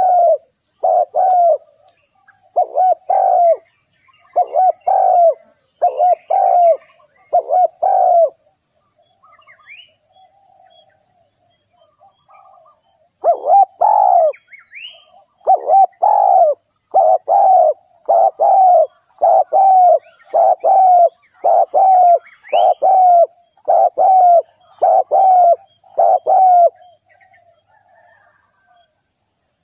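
Spotted dove cooing in runs of short, repeated coos, about one a second. The calls break off for about five seconds, then start again in a longer run. This is the decoy call used to lure wild spotted doves.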